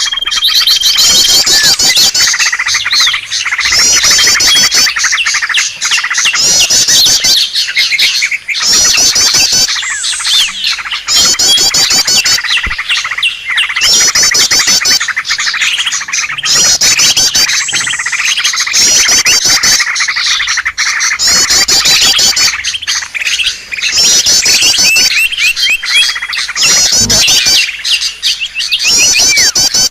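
Loud, dense chorus of small birds chirping and twittering, with fast high trills repeating about every two seconds: a bird-lure recording meant to draw in wild birds.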